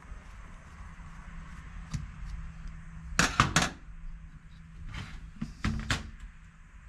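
Several light clicks and knocks of small metal carburetor parts and a hand tool being handled, most in a quick cluster about three seconds in and again near the end, over a steady low hum.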